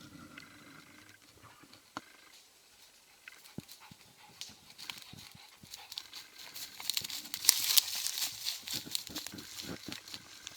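A Russian hound moving close through dry leaves and undergrowth, rustling and crackling as it works out a lost hare trail. The rustling gets louder in the second half.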